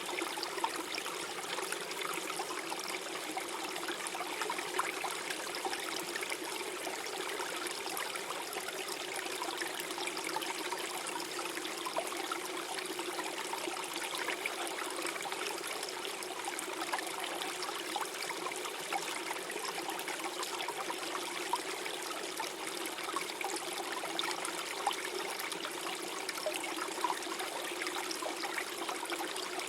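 Small forest stream flowing and trickling steadily over stones, a continuous gentle rush of water with small splashes and gurgles.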